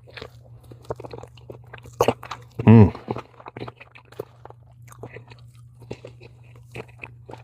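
A person chewing and crunching food close to the microphone, with irregular small crackles, and a short hummed "mm" about two and a half seconds in.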